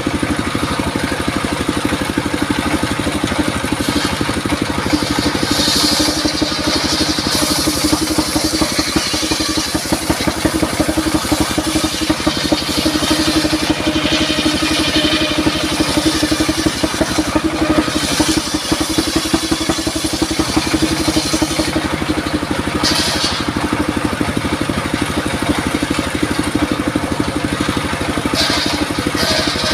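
Engine-driven circular saw running steadily while sawing durian wood, the hiss of the blade cutting through the wood swelling several times over the engine's drone.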